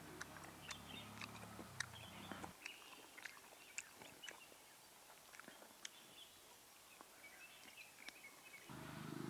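Very quiet eating sounds: soft chewing and scattered mouth clicks as a man bites and chews a fried chicken leg, with faint bird chirps. Near the end a low, steady hum begins.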